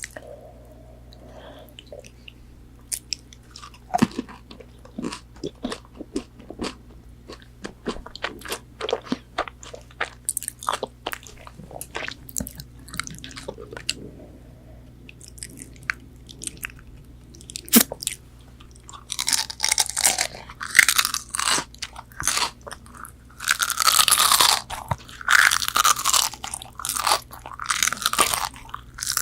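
A person chewing and biting crunchy McDonald's chicken nuggets. Scattered soft clicks and mouth sounds come first, then loud crunching bites over the last ten seconds.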